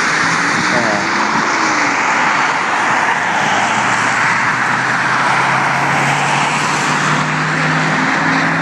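Road traffic: a steady hiss of car tyres, with a low engine hum coming in about halfway and growing near the end as a vehicle approaches.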